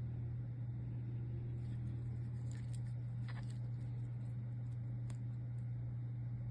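Steady low electrical-sounding hum, with a handful of light clicks and taps as parts and packaging are handled.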